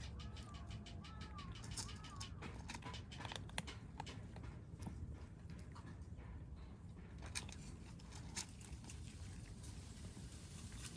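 Kittens eating, with many small crunching clicks scattered throughout. Three short arching calls come in the first two seconds.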